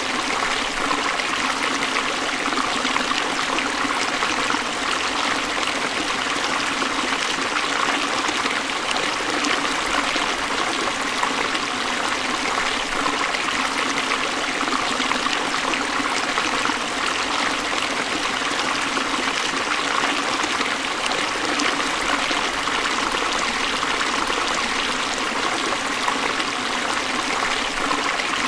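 Forest stream running over rocks: a steady rush and trickle of flowing water.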